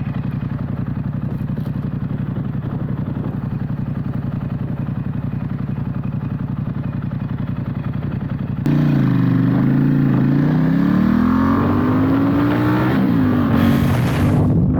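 Ducati XDiavel's L-twin engine running steadily at low revs. About two-thirds of the way through it abruptly becomes louder, and the engine pitch dips and then climbs steadily as the motorcycle accelerates.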